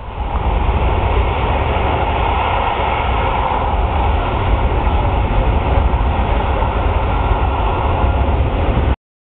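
The four turbofan jet engines of a C-17 Globemaster III running at high power: a loud, steady roar with a deep rumble underneath.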